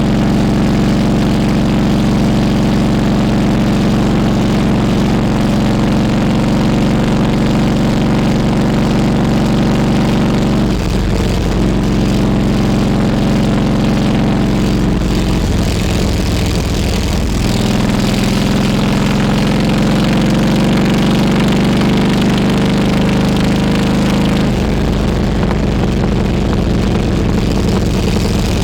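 Harley-Davidson Road King Classic's V-twin engine running under way, steady at first, then changing pitch a few times about midway, with a rising pitch for several seconds as it accelerates before it levels off again.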